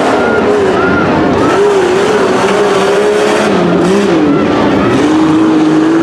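Jeep Cherokee XJ engine revving hard under load on a tough-truck run, its pitch rising and falling repeatedly, dipping about four seconds in and then holding a lower steady note.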